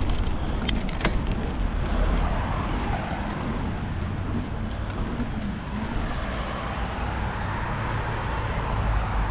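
Riding noise from a mountain bike on the move: a steady low rumble of wind and tyres, with scattered clicks and rattles from the bike.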